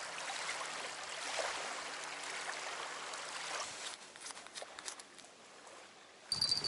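Steady outdoor rushing noise that fades after about four seconds to a quieter stretch with a few faint ticks. Near the end it gives way abruptly to a thin, high ringing tone.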